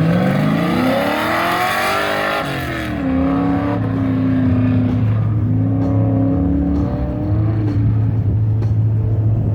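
A race-prepped pickup truck's engine accelerating hard on an autocross course: the pitch rises for about two seconds, then drops and holds near steady, with brief dips as the driver lifts and shifts.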